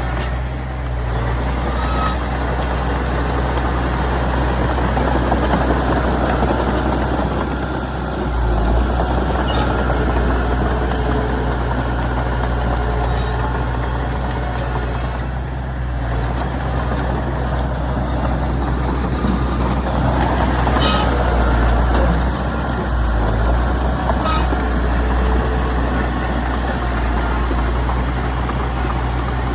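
Komatsu D31PX bulldozer's diesel engine running steadily, with a few sharp knocks about ten, twenty-one and twenty-four seconds in.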